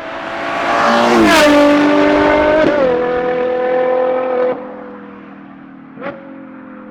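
Ferrari Purosangue's naturally aspirated V12 on a Novitec race exhaust as the car drives past at speed. The engine note swells to a loud peak about a second in, falls slightly in pitch, then steps down and drops away about four and a half seconds in to a steadier tone. A sharp crack sounds about six seconds in.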